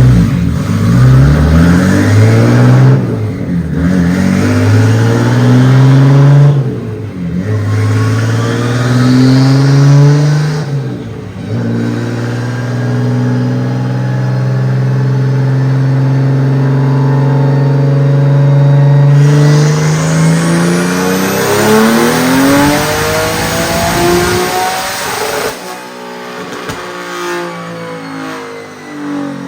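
Turbocharged drift car engine run on a chassis dyno. It revs up in three short climbs with a brief drop at each gear change, then makes a long full-throttle pull whose pitch rises slowly and then faster. About 25 seconds in the throttle closes and the engine winds down with falling pitch.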